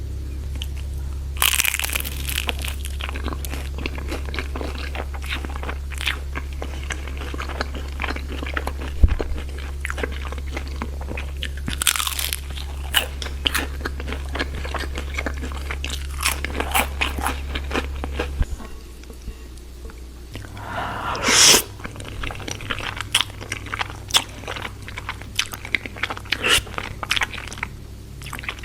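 Close-miked crunching and chewing of crispy fried spring rolls, with irregular crackling bites and one louder crunch about two-thirds of the way through.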